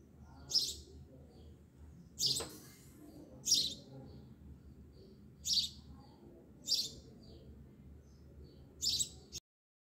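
A bird chirping: six short high calls about one to two seconds apart over a low steady hum. The sound cuts off abruptly near the end.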